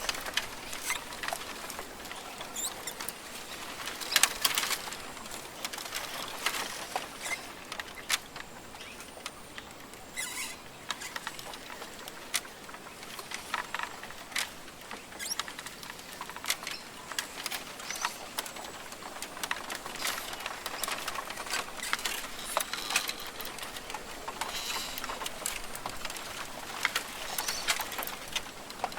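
Australian rainforest ambience: a steady, irregular patter of small ticks and taps over a soft high hiss, with faint bird calls here and there.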